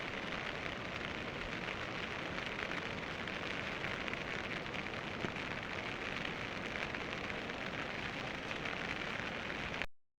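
Steady rain falling, an even hiss of many small drops with no breaks, cutting off abruptly just before the end.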